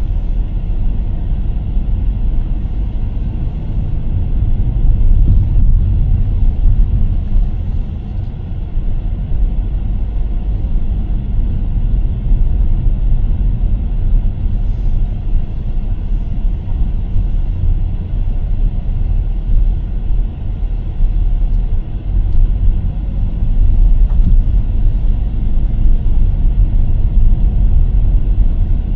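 Car driving along a road: a steady low rumble of engine, tyres and wind, its loudness rising and falling a little.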